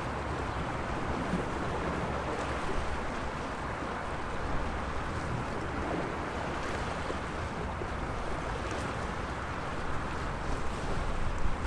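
Sea waves washing steadily against the shore, a continuous rushing noise with small swells, over a low wind rumble on the microphone.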